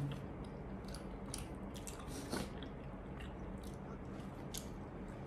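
Close-up chewing of a burger and fries by two people: soft wet mouth sounds with small, irregular clicks.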